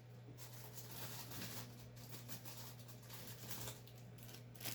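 Faint rustling and handling noises of craft supplies on a table over a steady low electrical hum, with one light click near the end.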